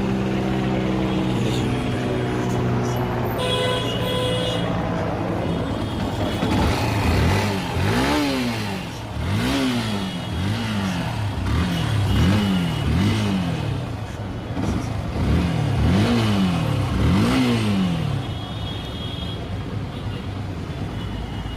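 Yamaha FZ V2's single-cylinder motorcycle engine idling, then given a series of quick throttle blips through the middle, each rising and falling in pitch, before settling back to a steady idle. It is running after its starter one-way clutch and clutch nuts were replaced to cure a flywheel noise.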